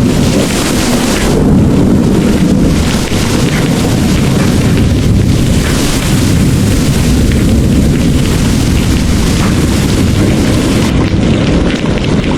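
Heavy rain pouring, with a loud, continuous rolling rumble of thunder underneath.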